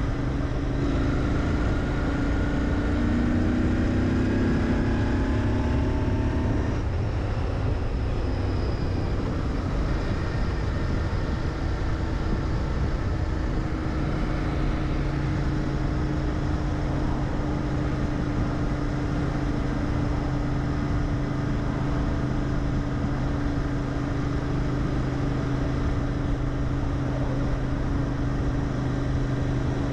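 Royal Enfield Interceptor 650's parallel-twin engine through its stock mufflers while riding: the pitch rises as it accelerates for the first several seconds, breaks at a gear change about six or seven seconds in, then holds steady at cruising speed.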